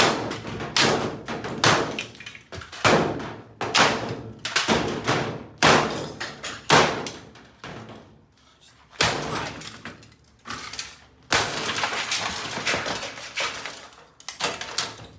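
Hard blows smashing an old Kenmore Elite top-load washing machine, about a dozen strikes roughly one a second, each ringing briefly, with breaking and glassy shattering as parts give way. There is a lull about eight seconds in, then a run of denser clattering.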